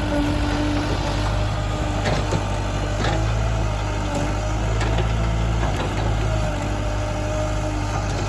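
Diesel engines of a backhoe loader and a tractor running steadily during soil loading, with a few short sharp knocks.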